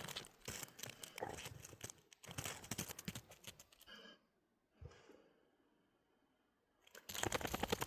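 Dry snow crunching in a quick run of irregular crunches, stopping about four seconds in and starting again near the end.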